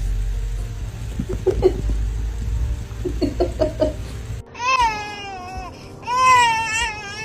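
A cat meowing in two long, wavering, crying calls, after a few seconds of low rumble with short squeaky sounds.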